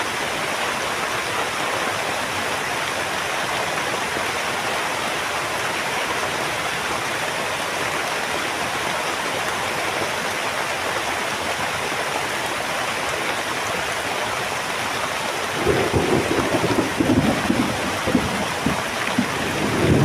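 Heavy rain falling steadily. About three-quarters of the way through, a low, uneven rumble of thunder comes in and grows louder.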